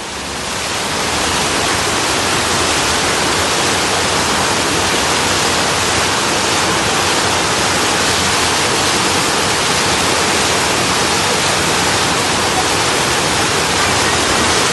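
Storm runoff torrent rushing in a flooded street, a loud steady rush of water that swells over the first second or so.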